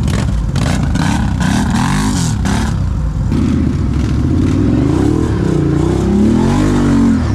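ATV engines revving up and down as the quads ride over rough ground, their pitch rising and falling several times, with a few short rough noises in the first three seconds.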